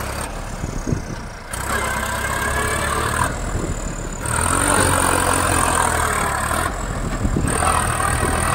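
Tractor diesel engine running steadily, getting louder about four and a half seconds in and staying louder.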